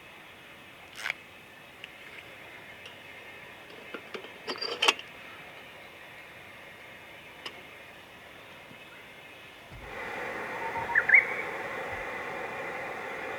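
A few sharp clicks and clinks of camp gear being handled, the loudest cluster about four to five seconds in, over a quiet outdoor background. About ten seconds in, the background steps up to a louder steady hiss with a few bird chirps.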